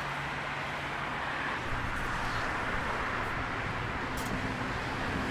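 Steady road-vehicle noise: a motor vehicle's engine hum under a rush of tyres and traffic, getting a little louder about two seconds in.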